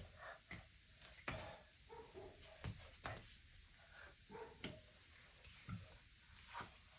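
Faint, irregular thumps and scuffs of a body, hands and feet moving on the floor during a breakdance coffee-grinder move, with a few brief faint squeaky sounds in between.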